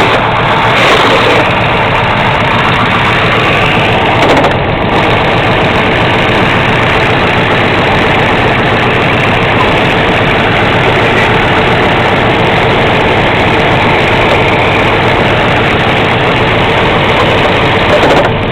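Chevrolet 350 small-block V8 with a solid-lifter camshaft idling steadily on an engine stand, with the rattle of its solid valve lifters. It gets briefly louder about a second in and again at about four and a half seconds.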